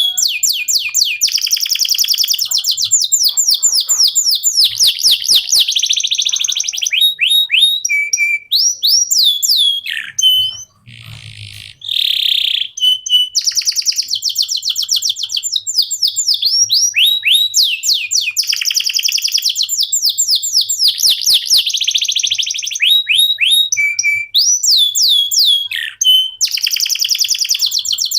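Male canary singing a long, continuous song of fast trills, each a rapid run of quick falling notes, with a short break near the middle filled by a harsher, noisier note.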